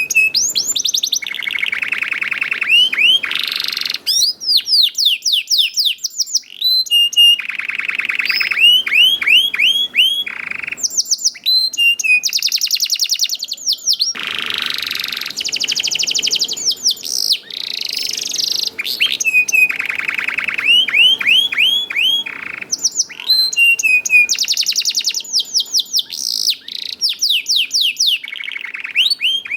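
Domestic canary singing a long, near-continuous song of rapid trills and rolls, strung with runs of quick downward-sweeping chirps.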